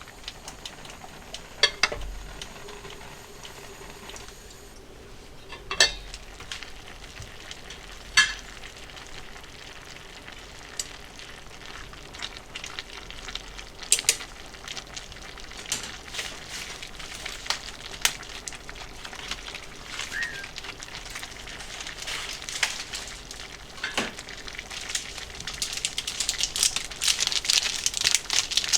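Food sizzling as it fries in a pan, with occasional sharp clicks of a utensil against the pan. The sizzle grows louder and more crackly near the end.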